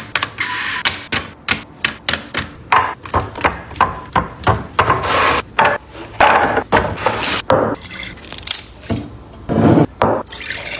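Water running and splashing in short spells, mixed with quick clicks and taps of small containers being handled.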